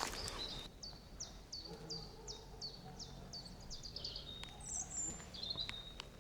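A songbird singing a long run of quick, repeated high notes, each sliding down, about three a second, then a few thinner high notes. A footstep crunches on the path at the very start, with a few light clicks later.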